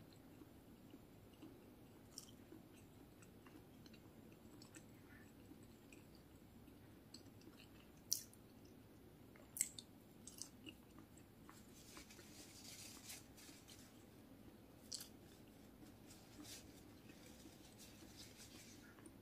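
Faint close-up chewing and biting of a crisp fried tempeh fritter, with scattered sharp clicks and crunches, the two loudest about eight and nine and a half seconds in.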